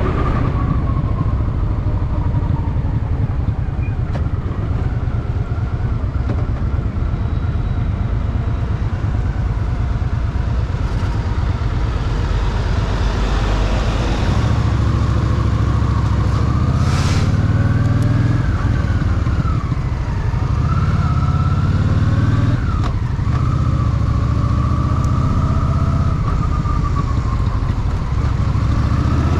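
Honda Shadow VT750's V-twin engine running under way. About halfway through it gets louder and its pitch rises and falls several times as the rider speeds up and eases off, with a brief hiss near the middle.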